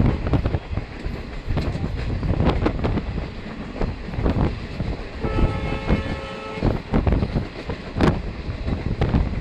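Train running along the track, its wheels knocking over rail joints, with a train horn sounding once for about a second and a half a little past the middle.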